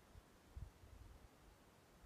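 Near silence, with a faint low rumble from about half a second in to just past one second.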